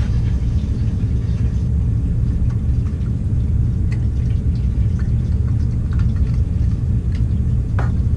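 Steady low mechanical rumble at an even level, with a few faint clicks and taps over it.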